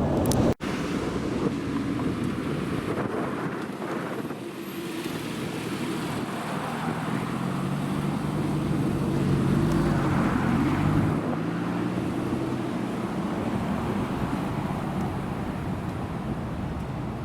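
A car engine running at low revs, its note swelling in the middle and then fading, over wind on the microphone and road noise. A brief dropout about half a second in.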